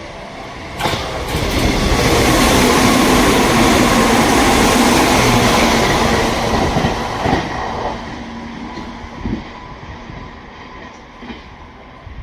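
Sanyo Electric Railway train passing through the station. Its rush of wheel and car noise comes up suddenly about a second in, holds loud for several seconds and fades away by about eight seconds.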